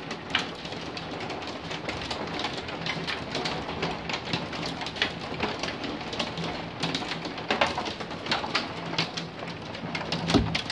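Hailstones and heavy rain pelting down: a steady rain hiss with dense, irregular sharp clicks of hail striking hard surfaces.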